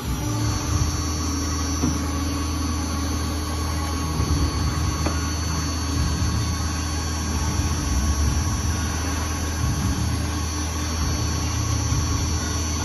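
MEP Shark 512SXI metal-cutting bandsaw running, a steady machine hum with a low drone and a higher steady tone over a constant hiss.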